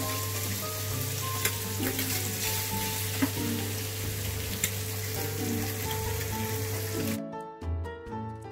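Beef strips sizzling as they sauté in a hot frying pan while being stirred with a silicone spatula, with a few sharp clicks. The sizzle cuts off suddenly near the end, leaving soft music.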